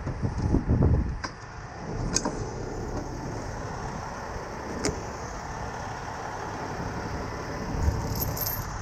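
A vehicle engine running steadily, with a few low thumps in the first second and single sharp clicks or knocks about one, two and five seconds in.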